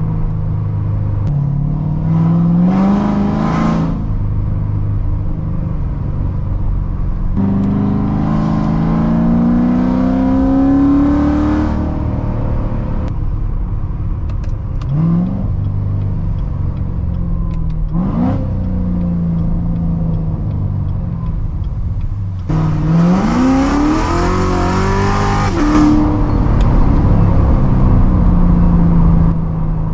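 Supercharged 6.2-litre V8 of a 2016 Corvette Z06, straight-piped through long-tube headers and an X-pipe, cruising with a steady exhaust drone. Several times it accelerates, pitch rising through the revs: about two seconds in, around eight seconds in, and most loudly about 23 seconds in. There are two short rev blips around 15 and 18 seconds in.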